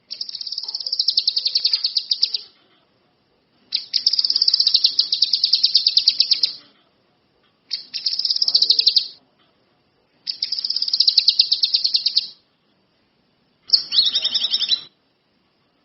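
A songbird, the 'kinoi' kept by Indonesian bird hobbyists, singing a fast, high trill in five bursts of one to three seconds each, with short pauses between them.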